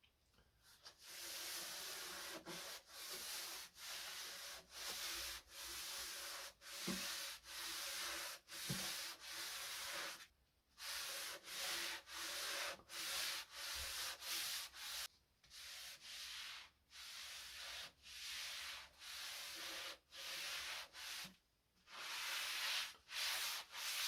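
Hand rubbing on wood in short back-and-forth strokes, about one to two a second, in runs broken by brief pauses.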